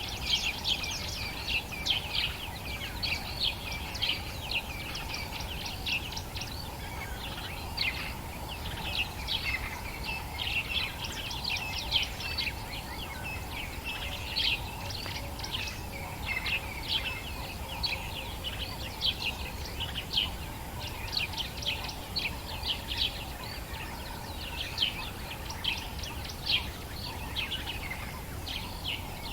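Dawn chorus of African bush birds: many overlapping short, high chirps and calls, continuous, over a steady low rumble.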